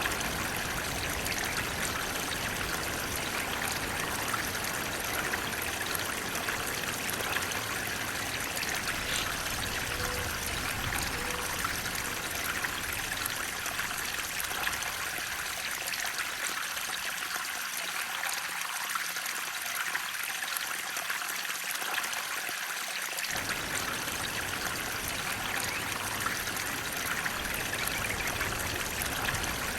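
Flowing water rushing and trickling in a steady, even hiss. Its low rumble thins out partway through and comes back suddenly about 23 seconds in.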